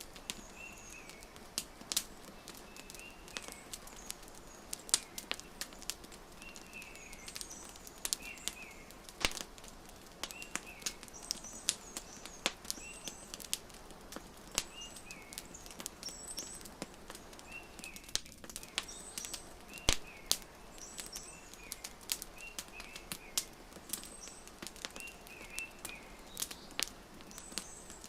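Wood fire crackling with frequent irregular sharp pops, while a small bird chirps in short repeated calls every second or two in the background.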